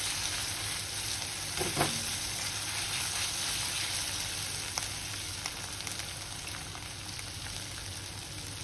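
Onion and ginger-garlic paste sizzling in hot oil in a kadai over a low-to-medium flame while the paste cooks off its raw smell. A silicone spatula stirs and scrapes it, with an occasional light knock against the pan. The sizzle eases slightly near the end once the stirring stops.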